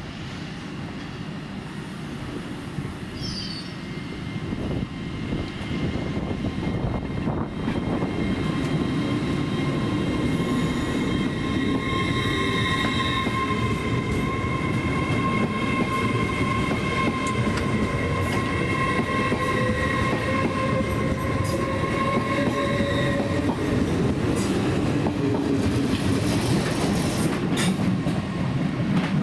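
Hull Trains Class 802 Paragon train running along the platform, picking up speed: a low rumble of wheels on rail under steady electric whines, with one whine rising slowly in pitch as it gains speed.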